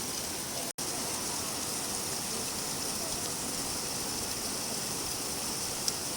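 Steady rain falling, an even hiss that cuts out for a split second under a second in.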